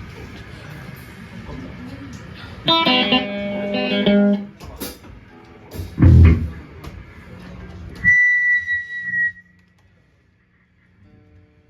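Electric guitar on a live stage amp: a strummed chord rings for over a second, a heavy low thump follows, then a steady high whine sounds briefly and the sound drops almost to silence.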